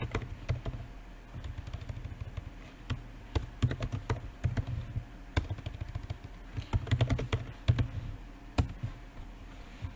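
Typing on a laptop keyboard: irregular runs of key clicks with short pauses between them, over a steady low hum.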